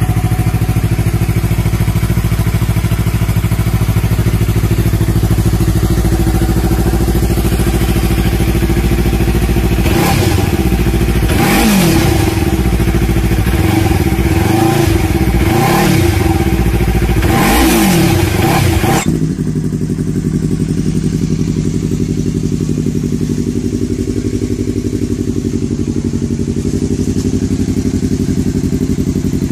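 Yamaha R3 parallel-twin motorcycle engine idling through its exhaust, then revved in about four quick blips, each rising and falling in pitch. About 19 seconds in, the sound changes abruptly to a steadier, duller idle.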